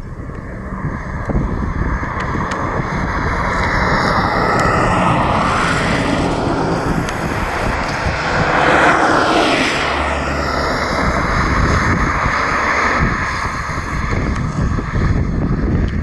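Propeller airplane at takeoff power passing close by, swelling to its loudest about nine seconds in, its pitch dropping as it goes past. Wind rumbles on the microphone throughout.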